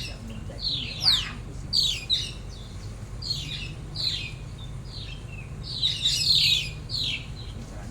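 Birds calling: about ten short, high chirps, each sweeping downward in pitch, coming irregularly and sometimes overlapping. A steady low hum runs underneath.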